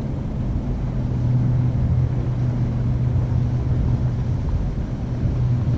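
Steady low mechanical hum with a rumble underneath, holding one constant low pitch throughout.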